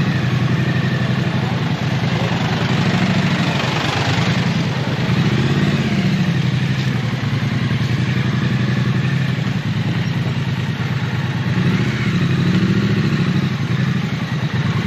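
Triumph Street Twin's parallel-twin engine running in slow traffic, its pitch rising and falling a few times as it pulls forward and eases off.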